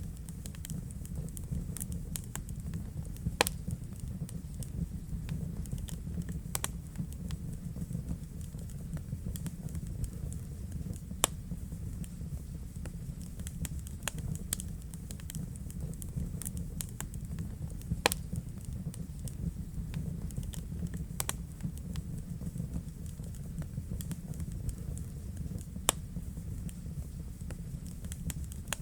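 Wood fire burning in a fireplace: a steady low rumble of flames with frequent sharp crackles and a few louder pops.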